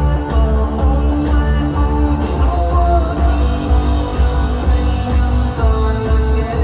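Live rock band playing in an arena, loud and continuous, with guitar over a heavy pulsing bass.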